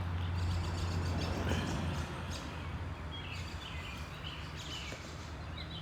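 Wind noise on the microphone, with birds chirping a few times and a steady low hum that fades about two seconds in.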